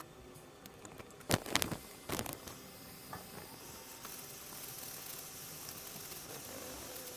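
A few sharp clicks and knocks of tools on the board, then the steady hiss of a hot air rework station blowing.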